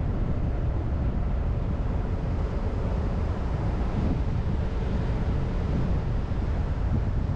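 Car driving along a road: a steady low rumble of tyres and engine with wind buffeting.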